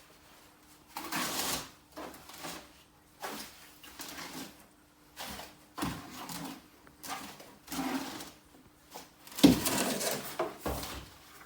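Irregular scraping and rubbing strokes, about a dozen short ones of uneven length, with the loudest a little over nine seconds in, typical of hand work on stone wall cladding.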